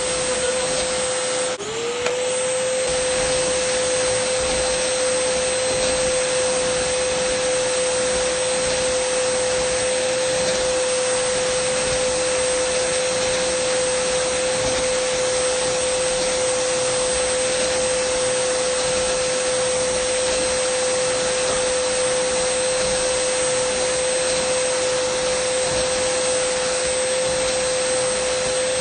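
Dyson vacuum cleaner running steadily: an even rush of air with a strong motor whine at one pitch. Just under two seconds in there is a brief dip and a click, and the whine sags and glides back up to its pitch.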